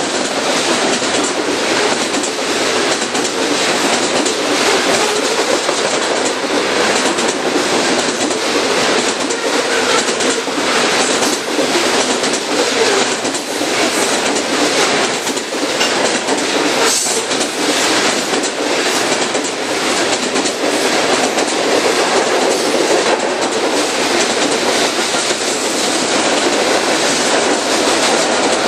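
Railroad cars rolling past close by, wheels clicking steadily over the rail joints with a continuous rumble of wheels on rail.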